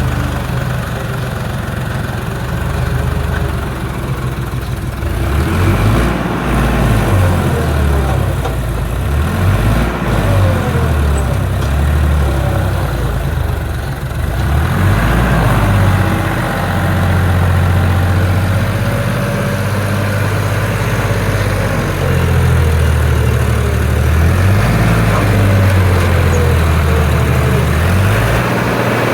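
Tractor engine running hard, its pitch rising and falling repeatedly as it is revved up and down, typical of a tractor pulling in a tug-of-war.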